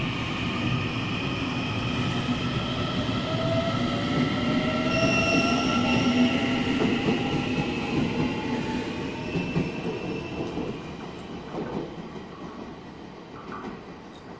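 A passenger train running past a station platform, with a rumble and high squealing tones from its wheels. It is loudest about five to six seconds in, then fades away as it moves off.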